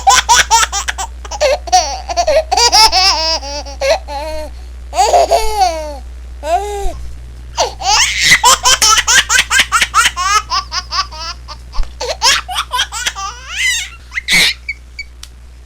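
High-pitched laughter in rapid runs of short ha-ha pulses, rising and falling in pitch, with a few brief pauses between runs, over a faint steady low hum.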